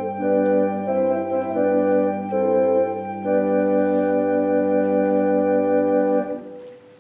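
Organ playing slow sustained chords that change every second or so, then a long final chord held from about halfway that stops near the end and dies away in the room's echo.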